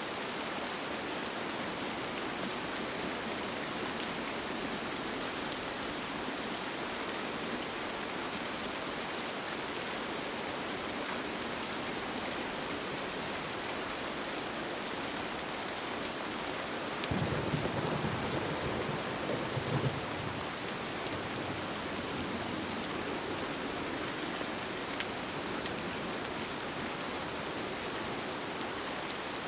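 Steady rain falling on a tent. About two-thirds of the way through, a low rumble of thunder swells for a few seconds and fades back into the rain.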